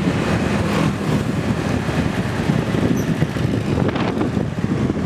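A motor scooter's engine running and wind buffeting the microphone while riding along, a steady rough rumble.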